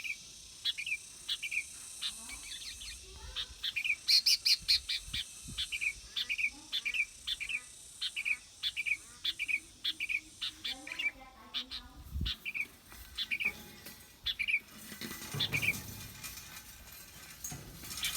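Bulbul calling: a long run of short, sharp chirps repeated about twice a second, with quicker flurries of notes now and then.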